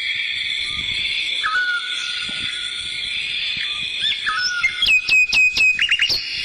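Whistled chirps and calls over a steady high-pitched drone, with a quick run of sharp chirps about five seconds in.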